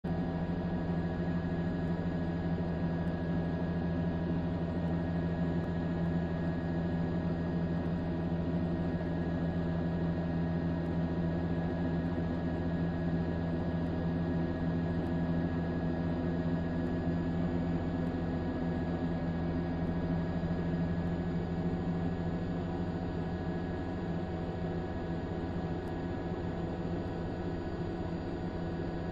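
Steady mechanical or electrical hum made of several held tones over a light hiss, easing slightly in the last few seconds.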